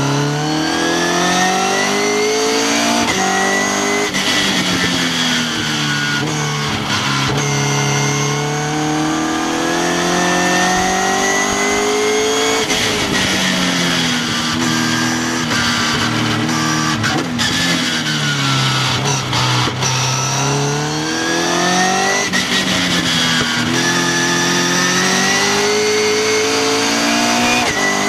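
Westfield sports car engine heard from the open cockpit at full track pace: the revs climb through the gears with short breaks at each upshift, then fall away under braking before rising again, several times over.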